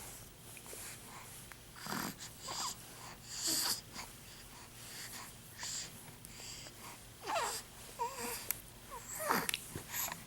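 A four-week-old infant's noisy breathing: wheezy snorts and grunts with short squeaky little vocal glides, coming in several separate bursts.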